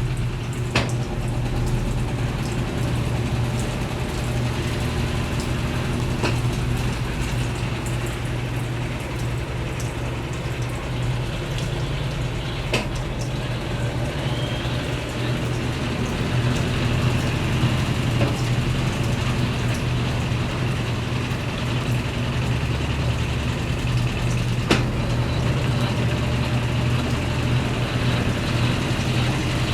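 Brastemp Ative! 11 kg washing machine running with a steady low motor hum and a few sharp clicks.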